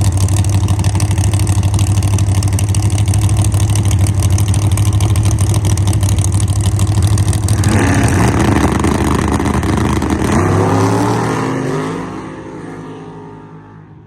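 Drag race car engine held at steady high revs, then launching about eight seconds in: the pitch climbs, drops at a gear change, climbs again, and fades as the car pulls away down the track.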